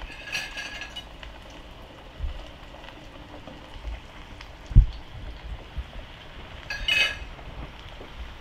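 Dough frying in hot oil in an aluminium pan, a soft steady sizzle. A fork clinks against the metal pan in the first second and again about seven seconds in. A few low thumps, the loudest a little before halfway.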